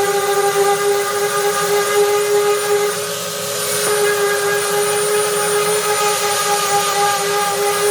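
Electric power tool motor running steadily at constant speed, with a steady hum and a high whine.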